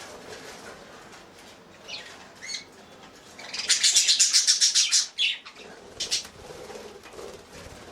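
Budgerigars chirping a few times, with a burst of rapid bird wing flapping lasting about a second and a half midway through, the loudest sound.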